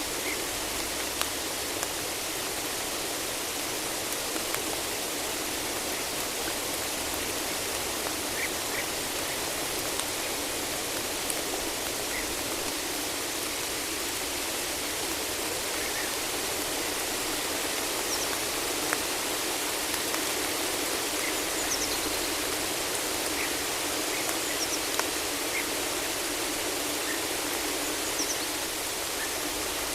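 Steady rain falling in a forest: an even hiss with scattered single drops ticking. A few faint, brief high chirps of birds come through the rain now and then.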